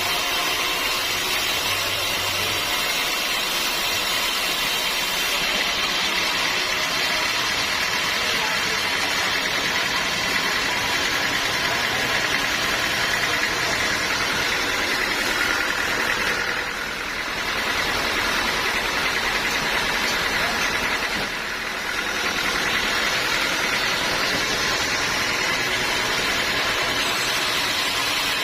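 Sawmill machinery running steadily, a loud constant mechanical drone with a whine of several steady tones, easing briefly twice about two-thirds of the way through.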